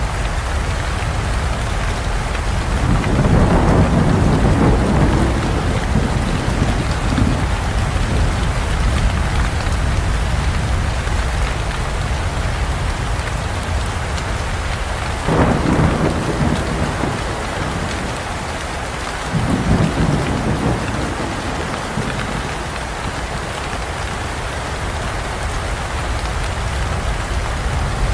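Steady rain falling, with thunder rumbling three times: a long roll about three seconds in, a sharper-onset clap about halfway through, and a shorter rumble a few seconds after that.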